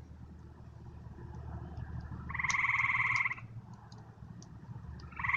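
Frogs calling: a pulsed, trilling call about a second long comes about two seconds in, and another starts near the end, over a steady low hum.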